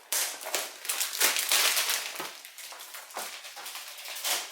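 Packaging rustling and crinkling as a part is pulled out of the box, in irregular bursts with small handling knocks, loudest about a second in.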